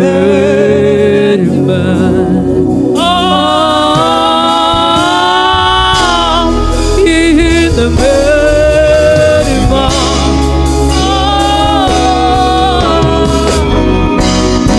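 Live gospel worship music: a singer holds long notes that waver slightly, over a band with a steady low bass and keyboard bed.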